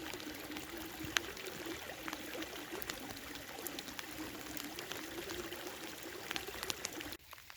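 Hard rain falling on the estuary water and mud: a steady hiss scattered with the ticks of individual drops. It breaks off abruptly about seven seconds in.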